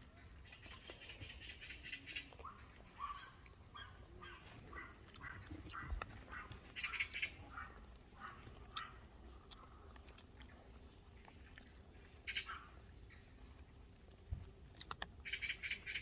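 Bird calls: a bird calling in short bursts several times, with a run of quicker chirps in between.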